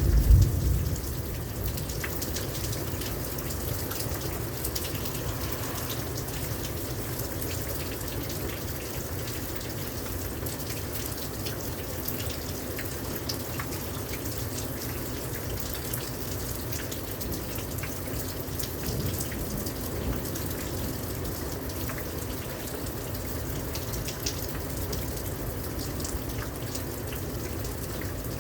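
Steady rain pouring down, with scattered individual drips and splashes. The tail of a low thunder rumble dies away about a second in.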